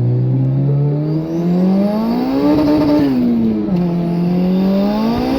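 Turbocharged Honda D-Series four-cylinder engine accelerating hard under load. It climbs in revs, drops sharply at a gear change a little past halfway, then pulls up again through the next gear.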